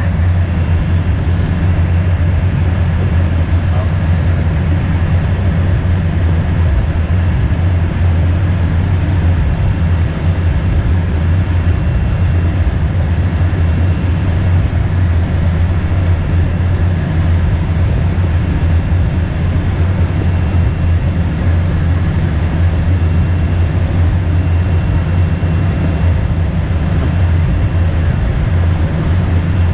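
Steady cockpit noise of an Embraer Phenom twin-turbofan business jet in flight: a constant deep drone of engines and airflow, unchanging in level.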